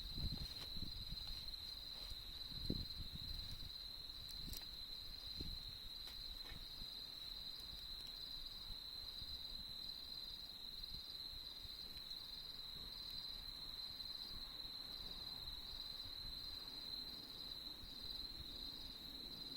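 Autumn crickets trilling in a steady, high, unbroken chorus with an even pulsing above it, over the faint low crackle of a campfire, with a few crackles and one sharp pop in the first few seconds.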